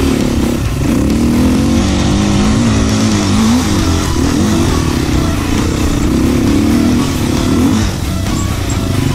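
Enduro motorcycle engine running under load, its pitch climbing and dropping again and again as the throttle is worked.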